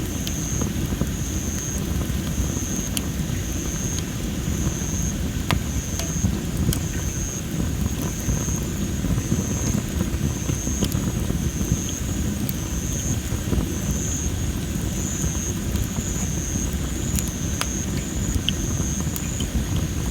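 Campfire of well-dried masaki (Japanese spindle) firewood crackling, with scattered sharp pops over a low steady rumble. A high, evenly pulsing trill runs alongside.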